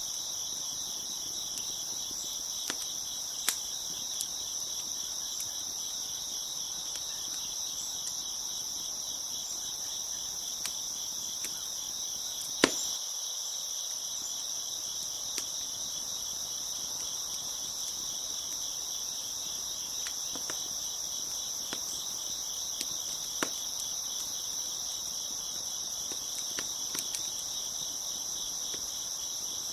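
A steady chorus of crickets chirping, with scattered pops and crackles from a wood fire, one sharper pop about halfway through.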